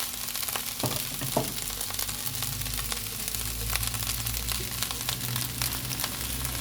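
Vegetable fried rice with tofu sizzling and crackling as it finishes frying in the pan, with two short knocks about a second in.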